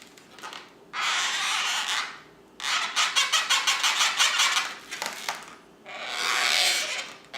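Felt-tip marker scratching across a latex balloon's surface in three rasping strokes, the middle one longest, as a face is drawn on.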